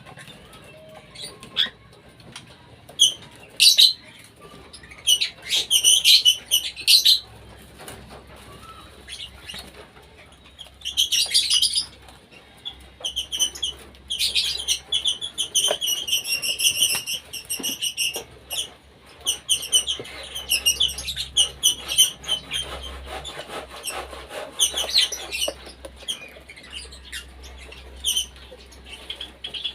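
Several cockatiels calling in a colony cage: repeated harsh, high chirps that come in bursts, then run almost without a break through the middle of the stretch.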